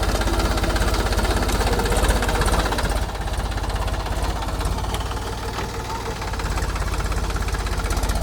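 Mahindra 275 DI TU tractor's three-cylinder diesel engine running steadily with a regular knock while driving a rotavator. It grows a little quieter about three seconds in and comes back up near the end.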